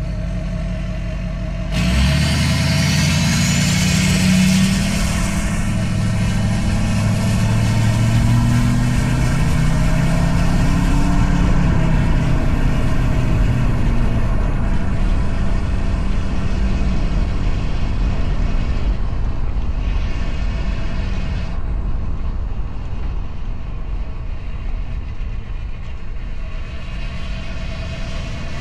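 Straight-piped Duramax 6.6 L V8 turbodiesel running, then about two seconds in it goes to hard throttle: the exhaust note rises sharply with a high whistle climbing over it, and it eases off gradually over the second half.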